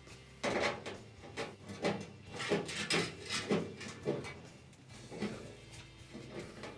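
Sheet steel of a wheel-arch patch panel being trimmed with hand snips: a series of short, sharp cuts, about two a second, with a slight pause near the end.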